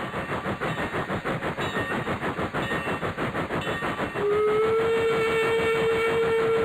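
Train running with an even rhythmic beat of about five a second; about four seconds in, a steady whistle starts and holds.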